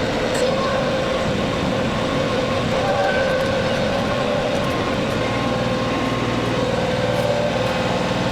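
LS XR3140H compact tractor's diesel engine running under way, with a steady whine over the engine noise; about halfway through a lower engine note comes up stronger.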